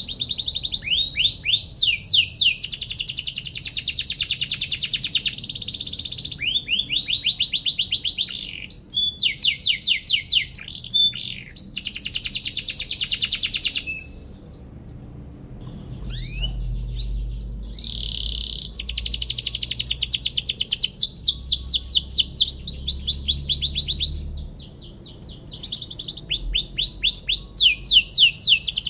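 Domestic canary singing a long, continuous song of rapid repeated-note trills, the phrases following one another with a short pause about halfway through.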